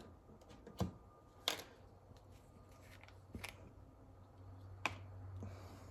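A few faint, scattered clicks and taps of small parts and a gasket-maker tube being handled on a workbench, over a low steady hum.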